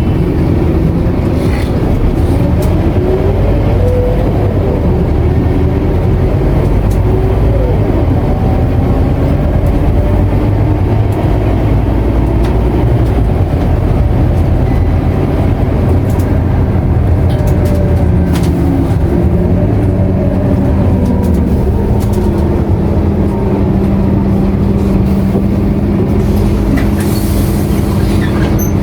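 A Scania K230UB bus's nine-litre five-cylinder diesel, heard from inside the cabin as the bus drives. The engine note rises and falls as it pulls through the gears, then holds a steadier drone from about two-thirds of the way in.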